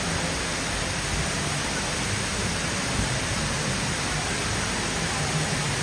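Large indoor mall waterfall, water cascading down a tall feature wall with a steady, even rush.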